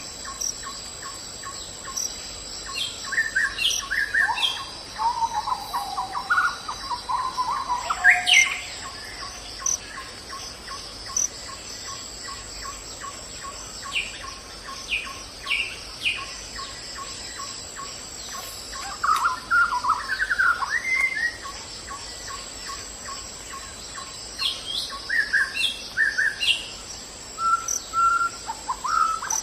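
Forest birds calling and singing in short chirps and whistled phrases, in several flurries, over a steady high-pitched insect drone.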